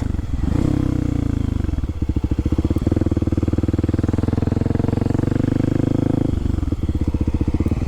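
Kawasaki KLX300SM's single-cylinder four-stroke engine winding down as the bike slows, then running at low revs with its individual firing pulses distinctly audible, dropping a little lower again near the end.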